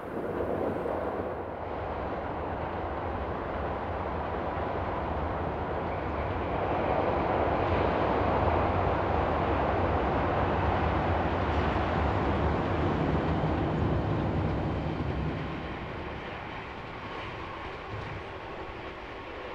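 Tobu Railway 10000 series electric train running past, a rumble of wheels on rails that builds to its loudest about halfway through, then fades as the train moves away.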